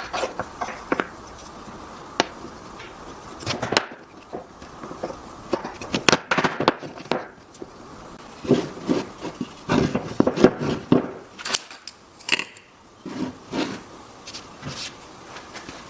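Irregular knocks, taps and scrapes of wooden pieces and hand tools being handled on a workbench, in short clusters with brief pauses between them.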